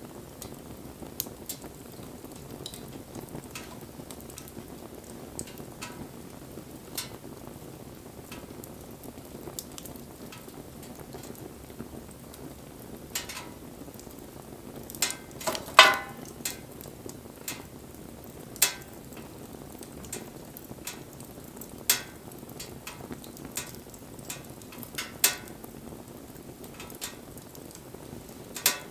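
Wood fire burning with a steady low rush and scattered sharp crackles and pops, the loudest cluster of pops about halfway through.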